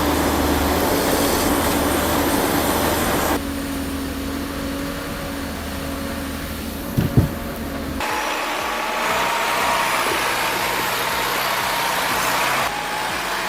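Engines of heavy forestry machinery running, in several short clips that change abruptly about three, eight and twelve seconds in. Two sharp knocks about seven seconds in.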